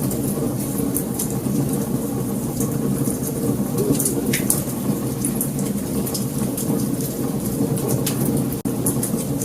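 Wood fire burning: a steady low rumble of flames with many sharp crackles and pops from the burning logs, one louder pop a little over four seconds in.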